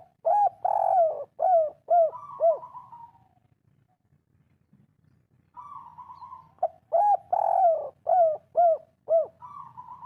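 Spotted dove (tekukur) cooing twice: each phrase is a long coo followed by three short, clipped coos and a trailing purr, the 'kuk 3' song pattern.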